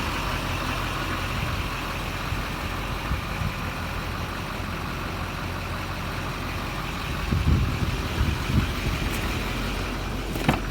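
Duramax LBZ 6.6 L V8 turbodiesel idling steadily, with a few low thuds about three quarters of the way through and a sharp click near the end.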